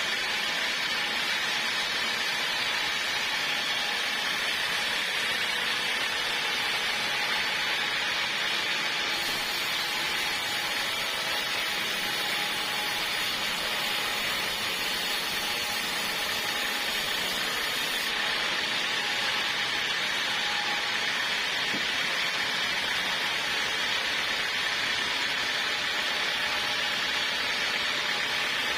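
Portable sawmill running steadily, its saw cutting through a log with a constant hissing whine.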